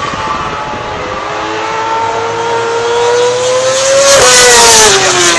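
Racing motorcycle passing at speed. Its engine note climbs slowly in pitch as it approaches, is loudest about four seconds in, then drops sharply in pitch as it goes by.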